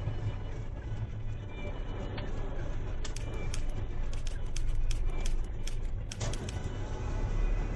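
Car driving, picked up by a dashcam: a steady low engine and road rumble, with irregular sharp ticks and clicks from about three seconds in.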